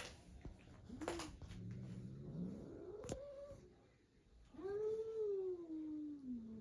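Long, drawn-out animal calls that glide up and down in pitch, with a few sharp clicks in between.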